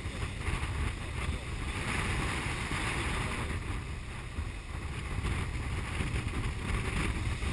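Strong wind, around 32 knots gusting 40, buffeting a GoPro's microphone aboard a sailboat: a steady low rumble with a rushing hiss over it, swelling slightly a couple of seconds in.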